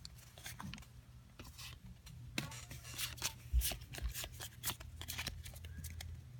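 Trading-card booster pack and cards being handled: scattered light rustles, taps and clicks of foil wrapper and card stock, over a faint steady low hum.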